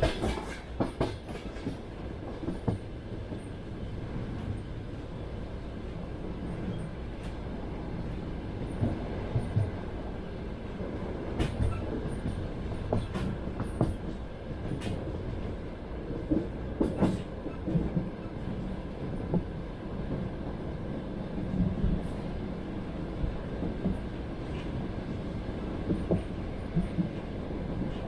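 Passenger train running on rails: a steady low rumble, with wheels clacking over rail joints in short clusters every few seconds.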